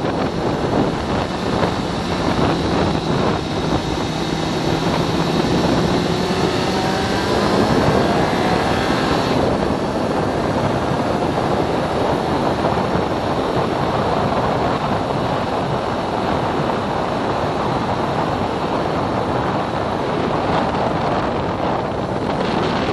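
Kawasaki Z750R's inline-four engine accelerating hard, its pitch rising for several seconds about two seconds in, then held at speed. Heavy wind rush on the microphone covers much of the engine.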